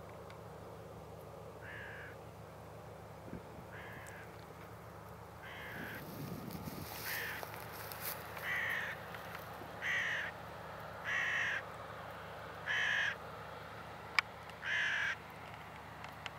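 A bird calling repeatedly: about nine short calls, one to two seconds apart, getting louder toward the end.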